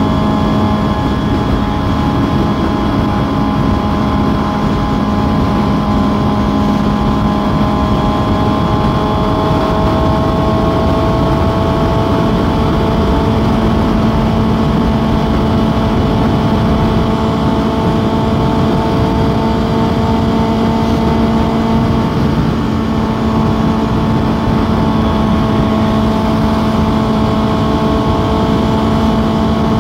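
Inline-four sport motorcycle engine running steadily at cruising speed, its pitch holding nearly level, under a constant rush of wind and road noise.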